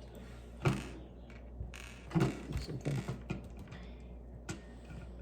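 Plastic Lego pieces being handled and snapped together: one sharp click, then a short cluster of clicks and rattles, then one more click.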